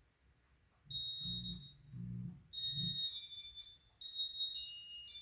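Casablanca Meridien ceiling fan's electronic control beeping through its demo mode: a run of high electronic tones in several pitches starting about a second in, with a low pulsing hum under the first couple of seconds.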